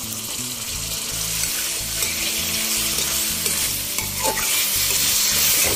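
Marinated goat liver sizzling in hot oil and spice paste in a kadai, stirred with a metal spatula. The sizzle grows louder toward the end.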